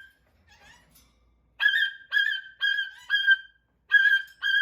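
Hawk chicks crying, played back through a phone's speaker: a regular series of short, high, piercing cries of the same pitch, about two a second, starting about one and a half seconds in.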